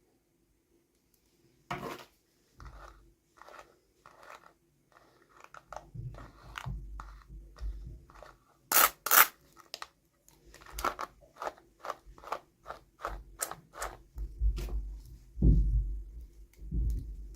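Hands opening toy packaging: a quick run of short, sharp handling and tearing sounds starting about two seconds in, with the loudest pair about nine seconds in and some dull low knocks later on.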